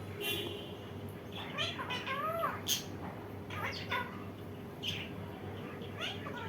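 Indian ringneck parrot calling: a couple of short rising-and-falling calls about two seconds in, then sharp high squawks roughly once a second.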